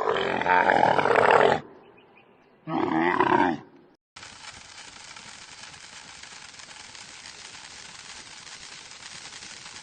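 An animal calls loudly twice, a long harsh call and then a shorter one with a wavering pitch. About four seconds in the sound cuts to a steady hiss.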